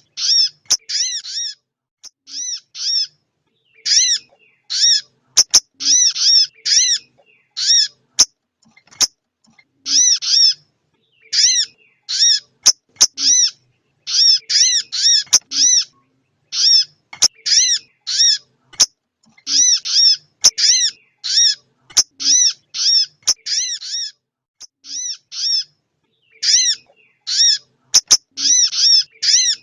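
Lure-call recording of a female little spiderhunter (sogon ontong) calling for a male: short, high, arched chirps, alone or in quick runs of two to four, repeated over and over with brief gaps. Sharp clicks are scattered among the calls.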